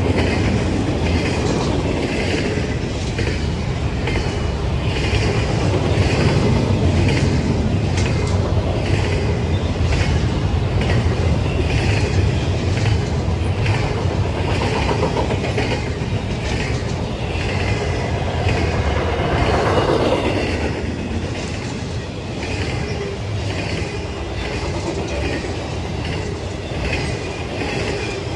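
Railroad cars rolling past, the wheels clacking steadily over rail joints above a continuous heavy rumble.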